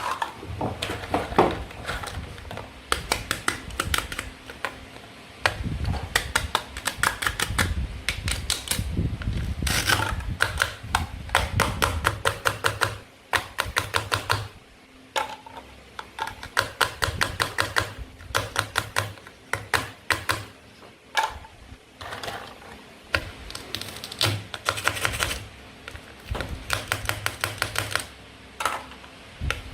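Toy play-food fruit and vegetables being cut apart with a toy knife: rapid runs of sharp clicks and taps, in clusters a second or two long with short pauses between.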